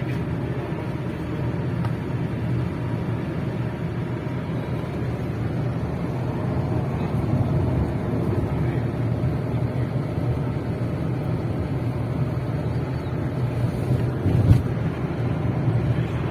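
A motor vehicle running steadily on the move, a constant low engine and road rumble, with one short knock about fourteen seconds in.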